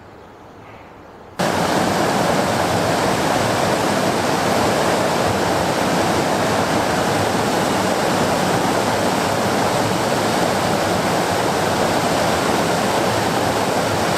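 River rapids rushing: a loud, steady roar of whitewater that cuts in suddenly about a second and a half in, after a quieter stretch.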